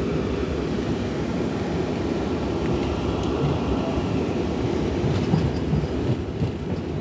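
Steady low rumble of a Pittsburgh T light-rail car, heard from inside the car as it runs along the track, with a few faint clicks in the second half.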